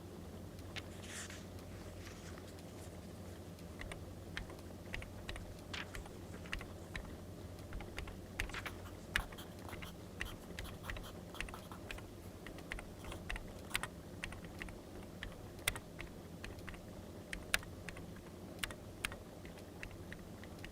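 Wood fire crackling: irregular sharp pops and snaps over a steady low rumble, with a brief hissing rustle about a second in.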